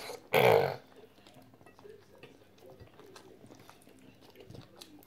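A person chewing a mouthful of crispy pata (deep-fried pork leg) and rice, with faint wet mouth clicks throughout. About half a second in there is one short, loud voice sound.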